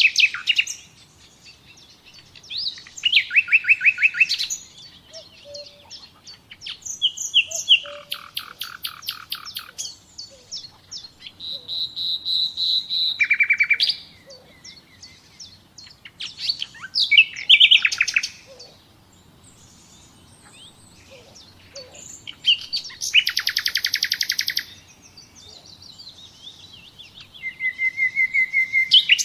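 A songbird singing in phrases of one to two seconds, each a fast run of repeated notes or a trill, with short pauses between about seven phrases.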